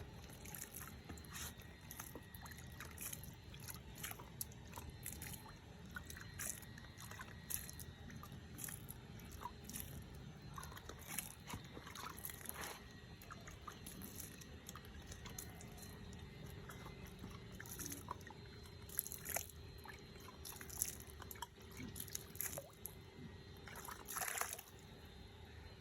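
Wet material being spread and smoothed by hand or tool, with many short, irregular scraping and dripping sounds.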